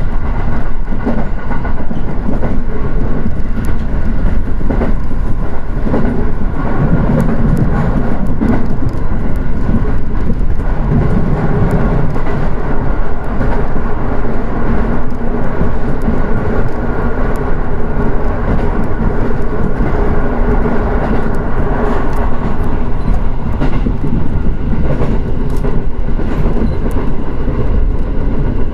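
JR East Shin'etsu Main Line train running between stations: a loud, steady rumble of wheels on rail with a faint hum, and scattered clicks from the track.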